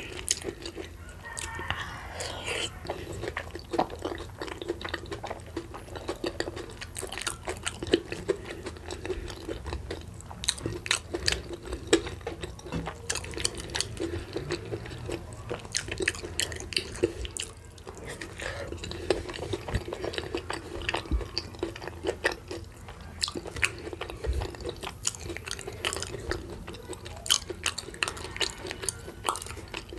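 Close-miked chewing and wet mouth sounds of someone eating boiled cocoyam dipped in a pepper sauce by hand, with frequent irregular smacks and clicks.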